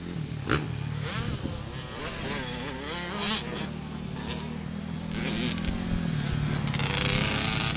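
Dirt bike engines running: a steady low idle under a higher, buzzing engine note that rises and falls in pitch as the throttle is worked. A sharp click comes about half a second in, and there is a louder hiss near the end.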